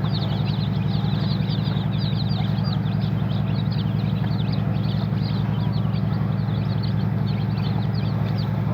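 A crowd of chicks peeping continuously, many short high cheeps overlapping, over a steady low mechanical hum with a fast even throb.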